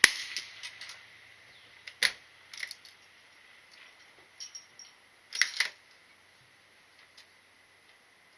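A single gunshot right at the start, then a string of sharp metallic clicks and clacks spread over several seconds, the sound of a firearm's action being worked and handled between shots.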